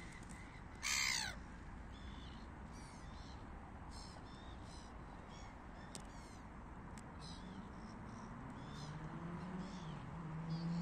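A single loud, harsh bird call about a second in, falling in pitch, with faint short high chirps after it over a steady background hiss. Near the end a low motor hum comes in and rises in pitch.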